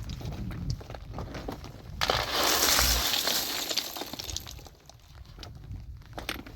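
Loose stones and rubble tumbling and crunching: a sudden loud rush about two seconds in that fades away over a couple of seconds, with scattered knocks of stone on stone around it.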